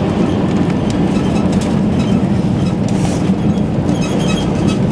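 Steady rumble of an Airbus A320 heard from inside the passenger cabin: engine and airflow noise with a light rattle on top, at an even loud level.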